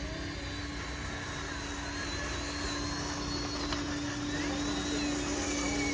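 Small electric motor of a radio-controlled model truck running with a steady low whine, while a thinner high whine wavers up and down in pitch.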